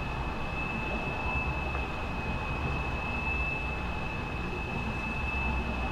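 Steady high-pitched single tone of the signal driving a vibrating plate strewn with sand and lycopodium powder, heard over a low hiss.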